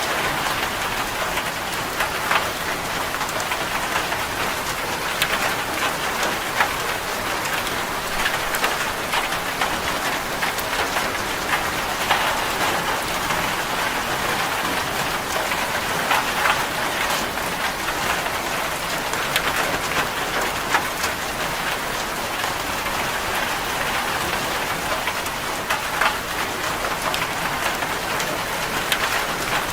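Steady heavy rain drumming on a corrugated zinc roof, a dense even patter with many sharp individual drop ticks throughout.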